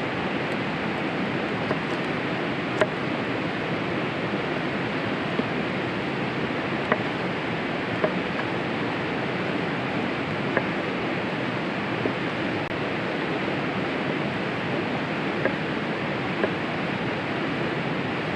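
Campfire crackling, with single sharp pops every second or two over a steady rushing noise.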